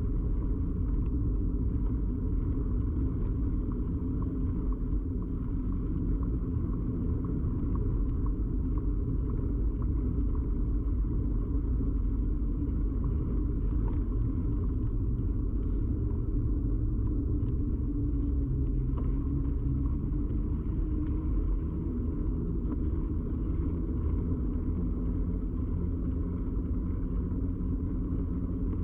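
Steady low rumble of a moving bicycle picked up through a camera mounted on the frame: tyre and road vibration carried into the camera, with a few faint ticks and rattles.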